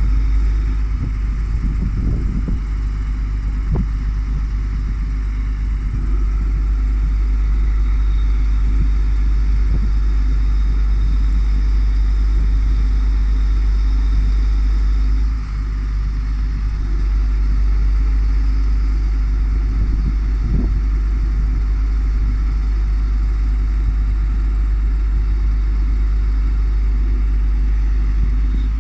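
MAN truck's diesel engine running steadily, driving its Palfinger loader crane, with a few short knocks from the crane and load in the first few seconds and another about 20 seconds in.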